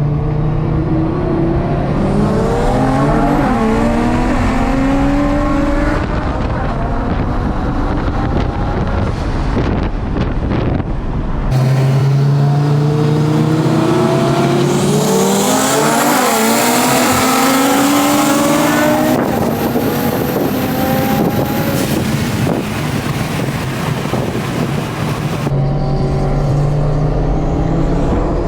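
Performance car engine accelerating hard under full throttle, its pitch climbing and dropping back at each upshift, heard in several short runs cut one after another.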